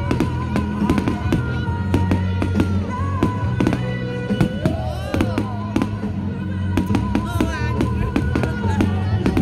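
Aerial fireworks banging and crackling in quick succession, many reports throughout, over loud music with a steady bass line and a melody.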